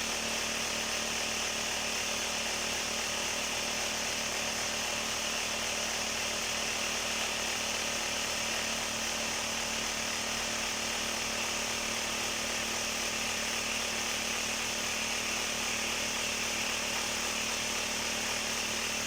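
Electric vibrating table running with a steady buzzing hum, shaking a mould of freshly poured concrete to compact it and drive out the air.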